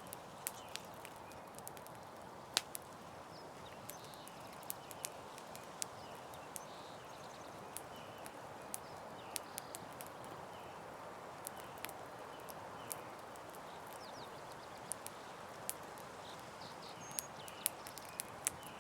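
Campfire crackling: irregular sharp pops and snaps over a steady soft hiss, with one louder pop about two and a half seconds in.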